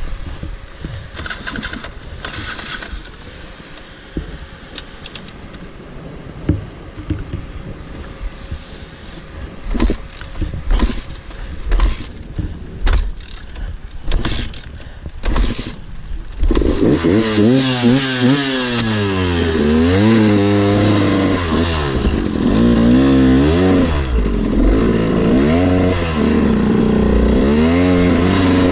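Scattered knocks and clatter over a quieter background. About 16 seconds in, a two-stroke dirt bike engine comes in loud and close, revving up and down repeatedly as the throttle is worked.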